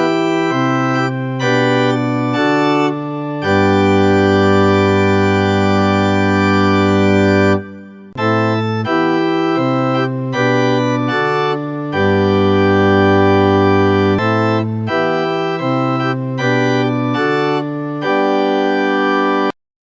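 Organ playing a hymn tune in full block chords, phrase by phrase, with two long held chords. The final chord cuts off suddenly near the end: the close of the hymn.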